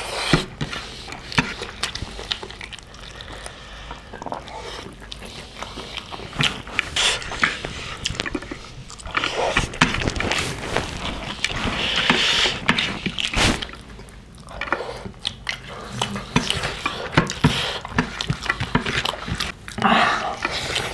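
Close-up chewing and wet mouth sounds of two people eating pig's feet curry and rice by hand, with many small sharp clicks and smacks.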